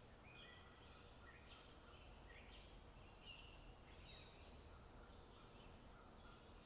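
Faint outdoor bird calls: a string of short, repeated chirps over a low, steady background hiss.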